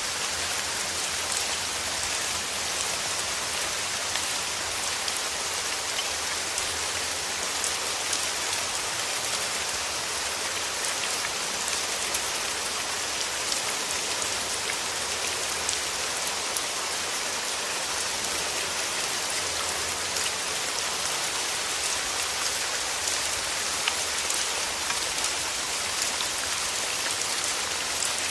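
Steady rain falling on rose plants: a dense patter of separate drops over an even hiss.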